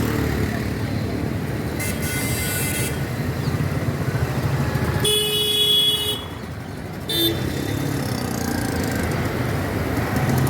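Road traffic running steadily, with vehicle horns honking: one about two seconds in, a longer, louder one about five seconds in, and a short toot about seven seconds in.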